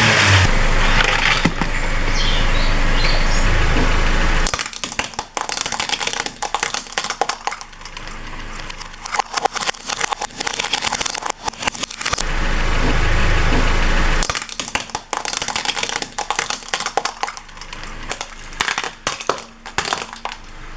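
Car engine running, then a tyre rolling over and crushing brittle objects in a long run of irregular cracks and crackles. This happens twice: engine sound, then crunching from about four and a half seconds in, and again from about fourteen seconds in.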